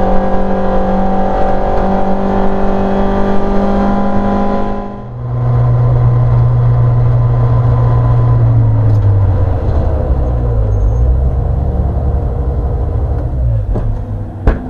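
Rear-engined Simca race car's engine heard from inside the cabin, running at steady high revs, then dropping abruptly to a much lower note about five seconds in as the car comes off the throttle. It holds a low, steady pit-lane speed, wavers and falls further as the car slows, and a sharp click comes near the end.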